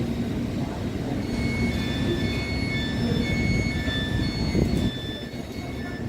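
A train running past with a heavy, steady low rumble, and short high-pitched metallic squeals coming and going from about a second in until about five seconds in.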